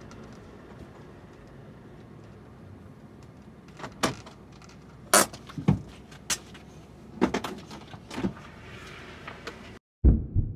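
Vehicle door handling: a series of sharp clicks and thuds as a kei van door is opened and shut, over a steady low background. Near the end the sound cuts off abruptly and a heavy low thump follows.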